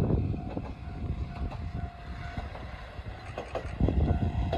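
Amagi Railway single-car diesel railcar running past: a steady rumble of engine and wheels on the rails, louder about four seconds in.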